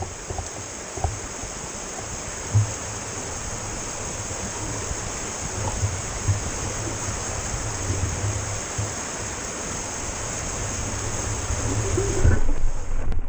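Wind and tyre noise on a ride-along camera microphone during an e-mountain-bike ride: a steady rushing hiss with irregular low buffeting thumps. Near the end the hiss loses its high edge and gets louder.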